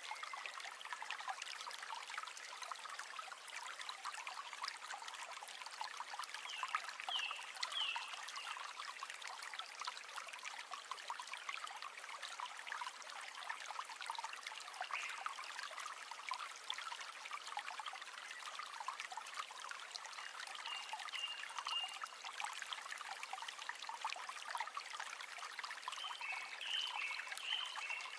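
River water running and babbling steadily over stones, a continuous splashing trickle. A few short high chirps break through at intervals.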